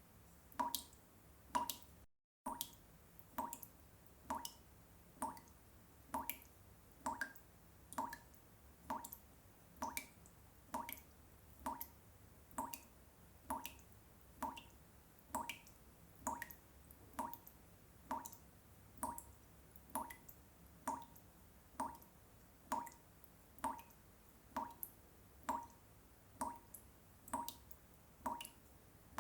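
Water drops falling one at a time in a steady, even rhythm of about one drop a second, each a short plop. The sound cuts out completely for a moment about two seconds in.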